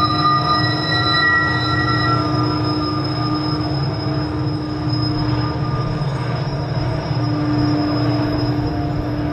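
Long freight train running along the track: a steady low rumble with several sustained high-pitched wheel squeal tones over it.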